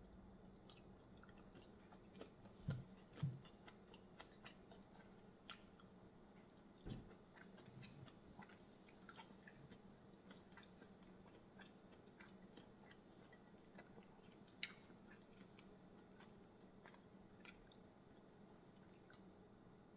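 Quiet close-up eating sounds: faint chewing and mouth sounds as shrimp and mussels from a seafood boil are eaten by hand, with scattered soft clicks of shells being picked apart. Two louder soft knocks come about three seconds in.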